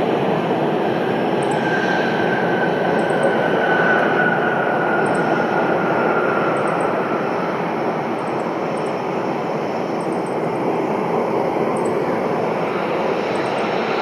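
Aircraft engines running steadily, a loud even rush with a faint whine that slowly falls in pitch a few seconds in.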